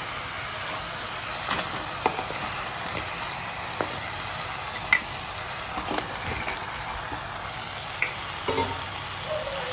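Hot oil and sauce sizzling steadily in a kadai as fried chicken pieces are added and turned with a metal spatula, with scattered clicks and knocks of the spatula and chicken against the pan.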